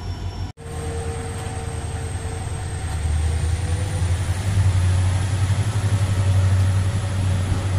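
Passenger train running, heard at an open coach doorway: a steady low rumble of wheels on the track, growing louder from about three seconds in as the train moves off along the platform. The sound breaks off briefly about half a second in.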